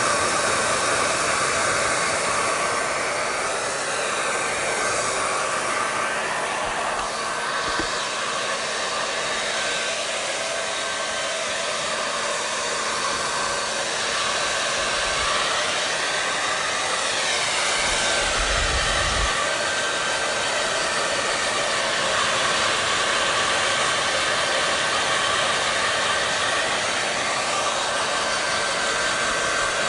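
Hair dryer blowing steadily: an even rushing hiss of air with a faint motor whine that holds level throughout.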